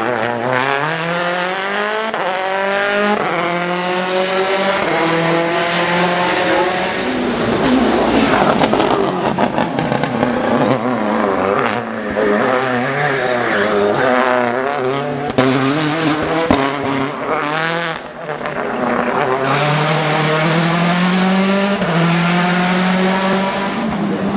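Citroen C4 WRC rally car's turbocharged four-cylinder engine accelerating hard through the gears, the pitch climbing and then dropping at each shift, with a few sharp cracks in the later part.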